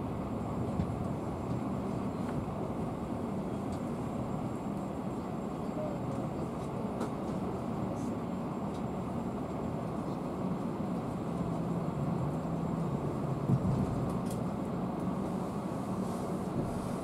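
Steady low rumble of a passenger train carriage rolling slowly, heard from inside the carriage, with a brief louder knock about thirteen seconds in.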